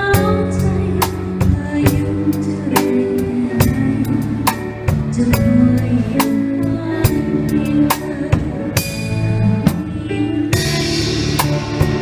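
Orchestra with a drum kit playing an instrumental passage, the drums keeping a steady beat of about two strokes a second under sustained notes. A cymbal swells and then crashes near the end.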